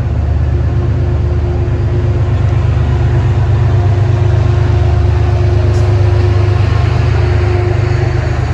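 Diesel train locomotive engine running close by: a loud, steady low rumble with a constant hum, swelling slightly in the middle.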